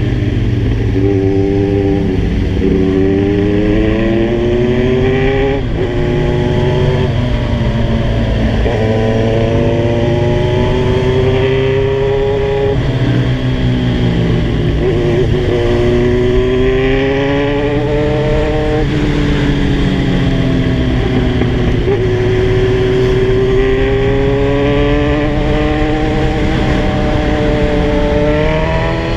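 Kawasaki Z1000 inline-four engine under way, its revs climbing and then dropping again and again as it pulls through the gears and eases off. Wind rumbles on the microphone underneath.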